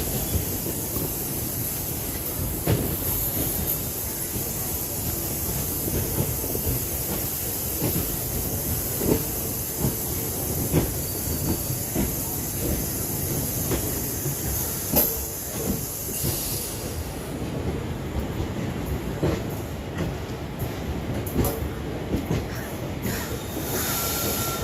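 Circar Express passenger train running on the rails: a steady rumble and hiss with wheels knocking irregularly over rail joints. The high hiss drops away about two-thirds of the way through.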